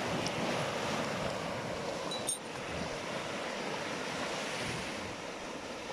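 Sea surf washing and breaking, with wind buffeting the microphone. One brief click a little past two seconds in.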